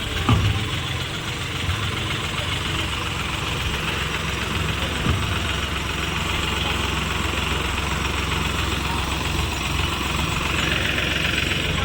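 A tractor engine running steadily at idle. A brief sharp sound rises above it just after the start, and a fainter one about five seconds in.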